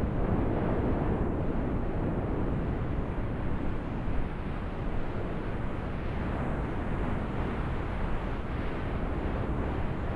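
A steady low rumbling noise with no clear pitch or rhythm.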